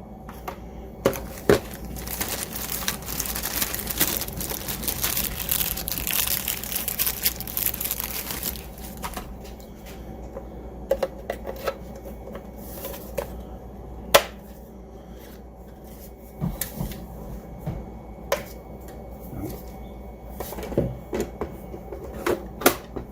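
Plastic parts of a Roomba i7 robot vacuum being handled and fitted together: several seconds of rustling and rubbing, then scattered sharp clicks and snaps as the new filter and dustbin are seated.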